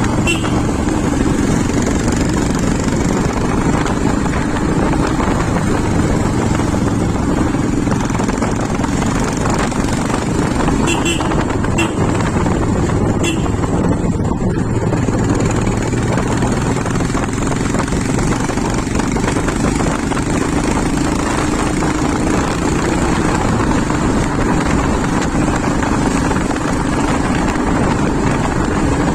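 Motorcycle being ridden at a steady speed: engine and road noise holding level, with a few faint ticks partway through.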